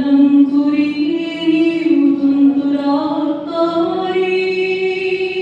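A woman singing long, held, ornamented notes, with the pitch stepping up about three and a half seconds in.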